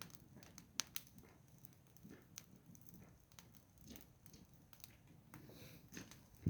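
Wood fire crackling faintly, with scattered sharp pops over a low steady rumble.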